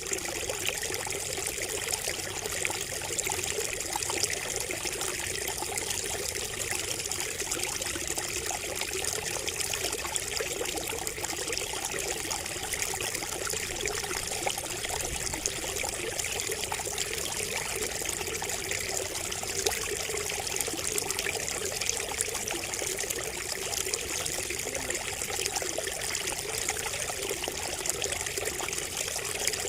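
Water trickling and splashing steadily from a bamboo spout, a continuous patter of small splashes.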